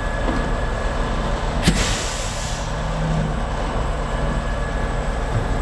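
Concrete mixer truck's diesel engine running steadily, with a sharp click and a hiss lasting about a second, roughly a second and a half in.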